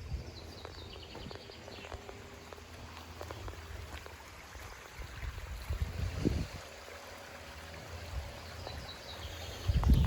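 Small stream's water running steadily, with a couple of low thumps about six seconds in and at the end.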